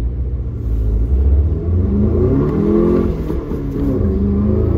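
Turbocharged 2.0 four-cylinder of a VW Golf GTI running a Neuspeed power module, accelerating hard. Its pitch climbs, drops briefly about three seconds in as it shifts up, then climbs again.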